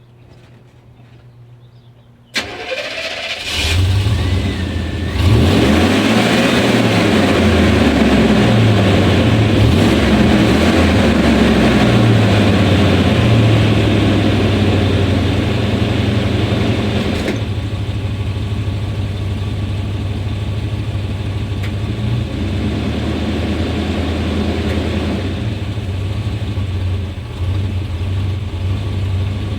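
A 1991 Chevrolet Suburban's 350 (5.7 L) V8 is cranked about two seconds in and catches a second later, then runs with its speed rising and falling unevenly before settling to a steadier, rough idle. The rough running is a misfire that turned out to come from a faulty ignition coil.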